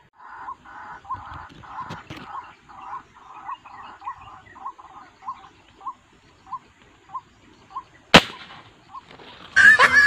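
A bird calling in a steady series of short, evenly spaced notes, about one every half second. About eight seconds in comes a single sharp gunshot. Just before the end a loud laughing sound effect cuts in.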